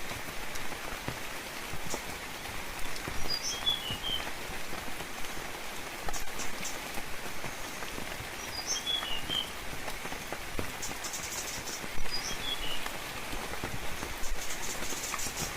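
Steady gentle rain with scattered drops. A small bird gives a short phrase of high chirps three times, about every four to five seconds.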